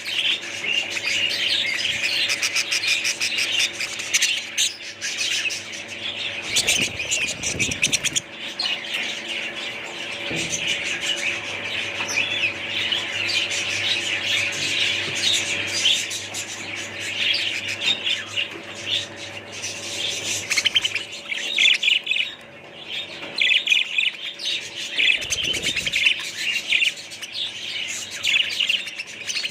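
Many small caged birds chirping and chattering together, continuously, over a steady low hum. There are two brief low rumbles, about seven seconds in and again near the end.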